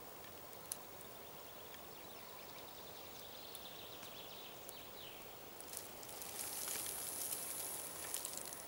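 A grass snake hissing defensively: a drawn-out, high hiss that swells up about six seconds in, over faint forest ambience.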